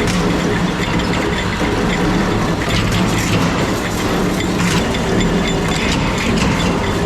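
Factory machinery running steadily: a low hum under a dense metallic clatter with scattered small clicks.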